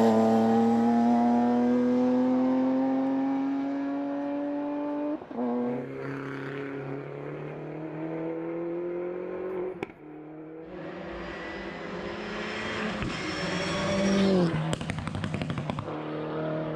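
Race car engine climbing through the gears at full throttle: the revs rise steadily, break at two gearshifts about five and ten seconds in, and rise again, then fall sharply near the end into a short run of choppy, stuttering revs.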